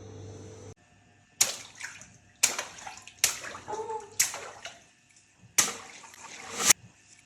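Water balloons bursting one after another, about six sharp pops, each followed by a splash of water.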